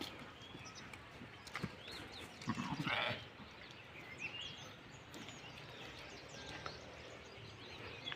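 A sheep bleats once, about two and a half seconds in.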